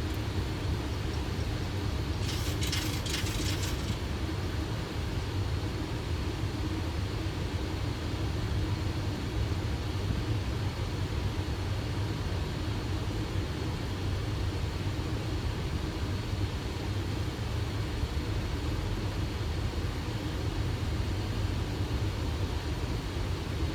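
Steady rumble and rushing airflow noise on the flight deck of a Boeing 737 on final approach, gear down and flaps 30. A brief crackling hiss comes about two seconds in.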